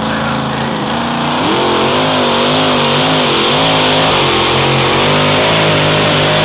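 Super modified two-wheel-drive pulling truck's engine running loud; about a second and a half in the revs climb, and the pitch then keeps wavering up and down as the engine runs hard.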